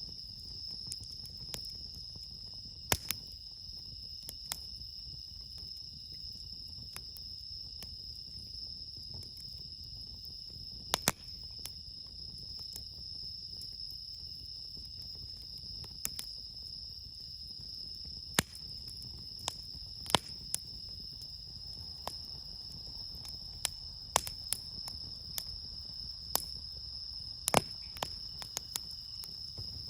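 Crickets singing in a steady, high-pitched chorus, with a campfire's burning wood crackling and giving off sharp, irregular pops, the loudest about 3, 11, 18, 20 and 27 seconds in.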